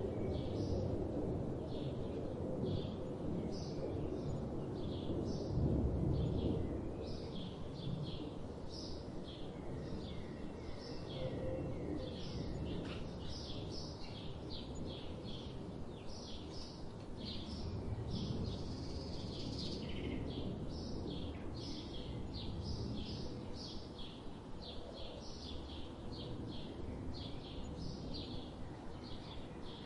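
Several small birds chirping and singing, many short high chirps in quick succession that grow busier about a third of the way in, over a steady low rumble of background noise.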